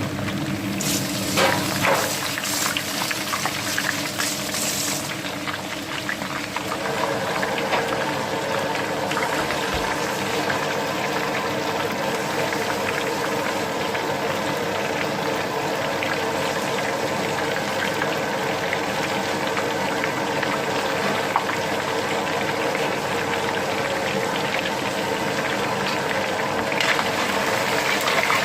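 Marinated, cornflour-coated chicken pieces frying in hot oil: a steady bubbling sizzle, with a few sharp clicks in the first few seconds.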